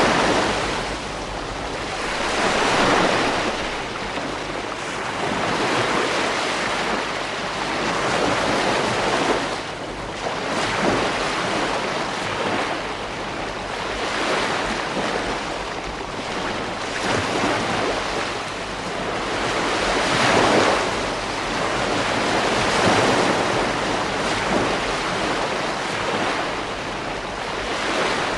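Ocean waves breaking on a beach: a continuous wash of surf that swells and falls back every few seconds.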